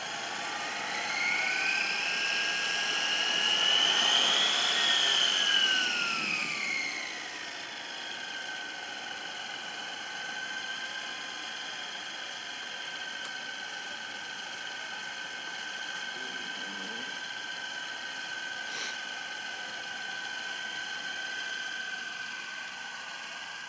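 Radio-controlled model airplane's motor and propeller running with a high-pitched whine. It climbs in pitch and loudness over the first few seconds, peaks about four to six seconds in, falls back, then holds steady.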